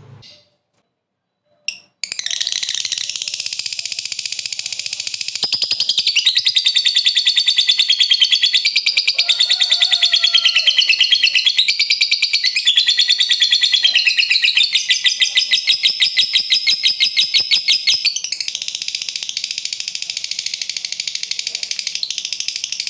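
Lovebird's long ngekek: a loud, unbroken, rapid high-pitched chattering trill that starts about two seconds in and grows louder and more sharply pulsed from about five seconds in.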